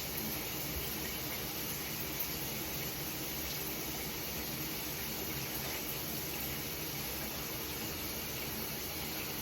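Running water spraying steadily onto a puppy being bathed.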